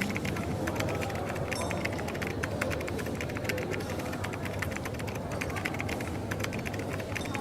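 Coffee shop ambience: a steady low hum and murmur with rapid, irregular light clicking and clatter throughout.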